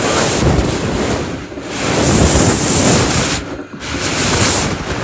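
Hurricane wind gusting hard and buffeting the microphone, surging and easing in waves of noise, with a brief lull about three and a half seconds in.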